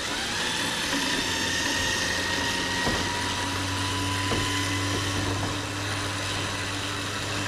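Electric trailer winch running steadily under load, pulling a tractor up onto the trailer, its motor whining, with a couple of light knocks in the middle.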